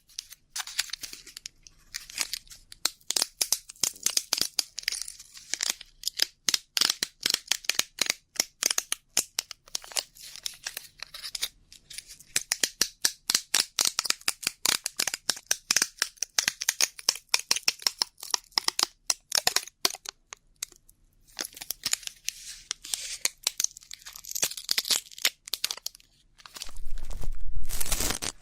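Ear-cleaning ASMR: an ear pick scraping and scratching close to the microphone, making rapid, irregular crackly scratches and clicks. Near the end there is a louder, fuller rubbing with a low rumble.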